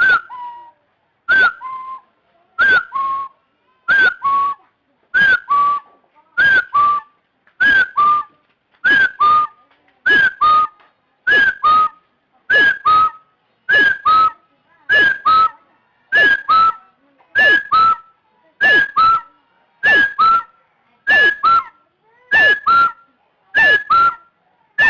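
Chinese francolin calling, a loud two-note phrase repeated steadily about once every 1.2 seconds, each a falling note followed by a shorter lower one.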